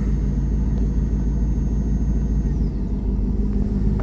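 1999 Chevrolet Camaro Z28's 5.7-litre LS1 V8, fitted with a Spintech muffler, idling steadily while still cold and warming up.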